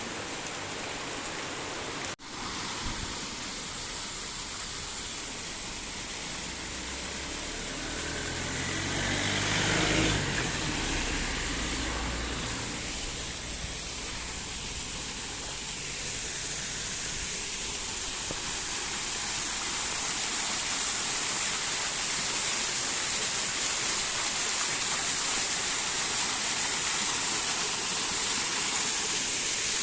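Heavy rain falling steadily, an even hiss throughout. About ten seconds in, a vehicle's engine comes up under the rain and passes, swelling and then fading over a few seconds.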